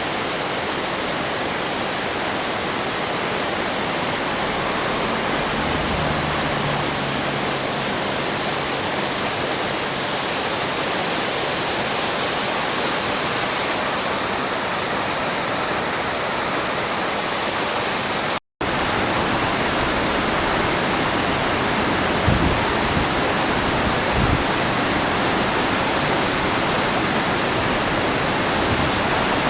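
Dense, steady rush of floodwater pouring from a dam during an emergency discharge. The water is muddy from a typhoon. The sound cuts out briefly about two-thirds of the way through, and two low thumps follow a few seconds later.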